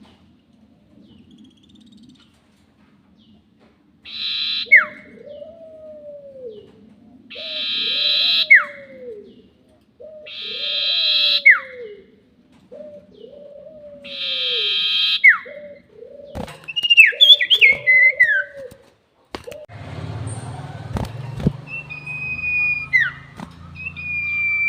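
Bird calls of the sirtu, played as a lure recording. Four repeated phrases come about three and a half seconds apart, each a buzzy high note dropping into a sharp falling whistle over a lower arched note. Then come quicker falling whistles, and near the end long whistles over a low hum and hiss.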